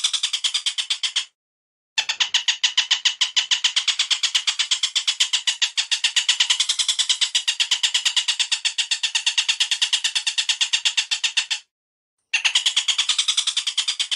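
Bird call recording: a rapid, even chatter of repeated short notes, about eight a second. It plays in three runs, each stopping abruptly, with two short silences between, typical of a looped birdsong track used to train songbirds (masteran).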